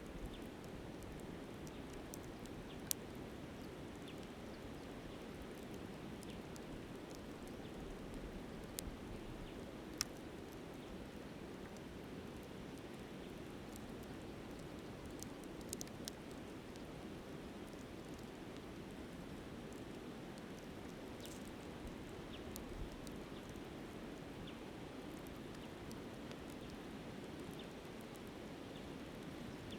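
Steady rush of a flowing river with sharp pops and crackles from a wood campfire every few seconds, the loudest about 3 and 10 seconds in.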